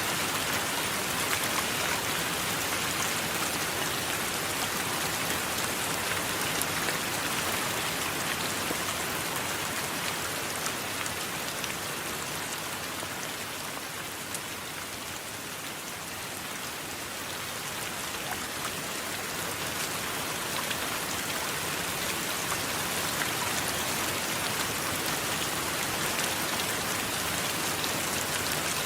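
Steady rain falling, a dense hiss with fine drop patter, easing slightly about halfway through and then building back up.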